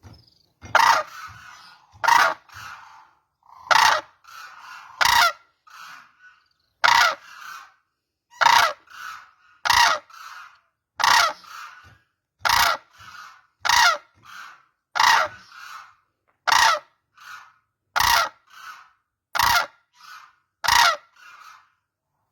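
Cranes calling: loud, harsh honking calls repeated about every second and a half, with softer calls in between.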